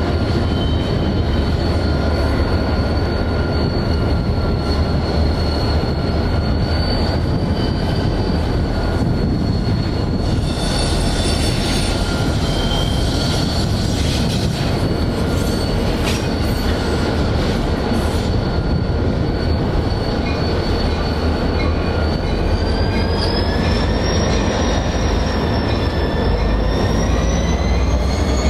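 Freight train rolling slowly through the rail yard, its steel wheels squealing against the rails in several high tones over a steady low rumble. The squeal wavers and climbs in pitch near the end, and a few short knocks come in the middle.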